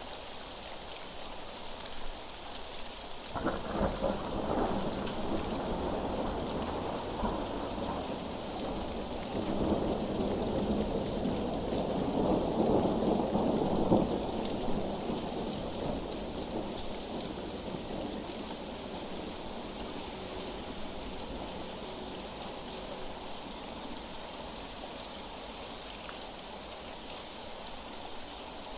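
Steady rain with thunder: a roll of thunder begins a few seconds in, and a longer, louder roll builds near the middle before fading back into the rain.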